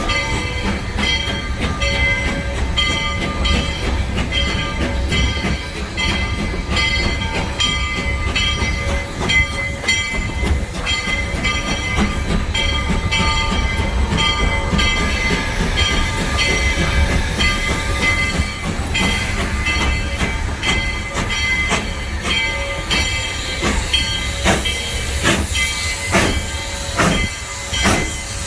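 Steam train running along the track, with a regular, rhythmic clatter throughout.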